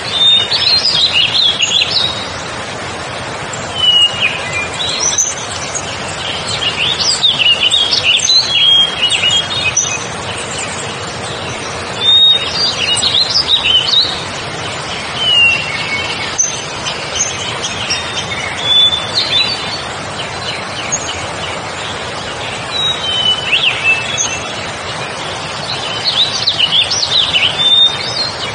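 Wild birds chirping and calling in short, quick, high phrases that come in clusters every few seconds, over a steady background hiss.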